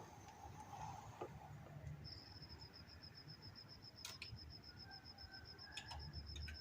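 Faint, high-pitched rapid beeping at about seven pulses a second, starting about two seconds in, with a few sharp clicks in the second half.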